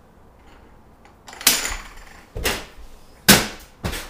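A run of four sharp knocks or bangs, about one a second, starting after a moment of quiet.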